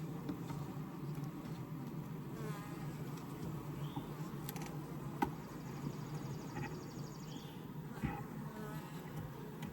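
Honeybees in an open, crowded hive buzzing as a steady, dense hum. Two sharp knocks sound about five and eight seconds in.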